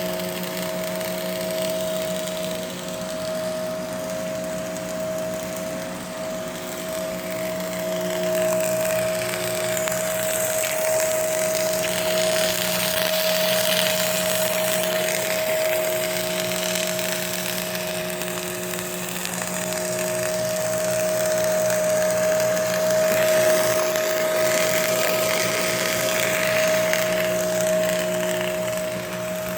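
Electric arc welding: a continuous crackle from the arc over a steady electrical hum from the welding machine.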